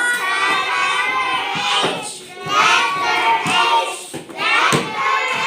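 A class of young children singing a phonics letter-sound song together, with some hand clapping.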